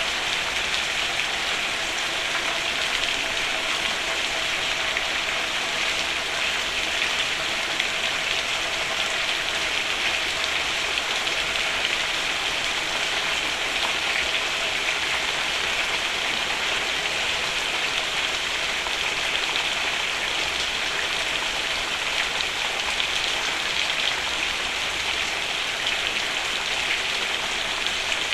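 Steady rain falling on a roof, an even hiss of drops.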